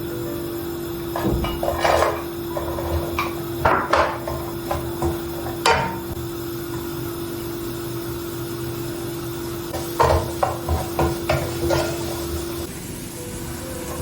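Kitchen work: irregular hard knocks on wood and clatter of utensils, with a quicker run of knocks near the end. A steady hum runs underneath and stops shortly before the end.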